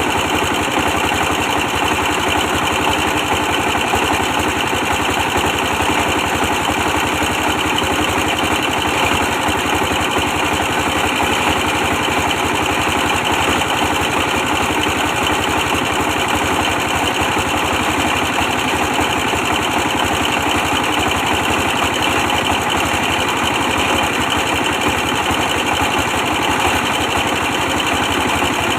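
A 24 hp stationary diesel engine running steadily at constant speed, driving a brick press machine.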